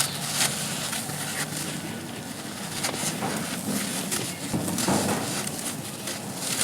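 Dry, grainy charcoal shapes crumbling and being crushed: a continuous gritty crackle broken by scattered sharp snaps.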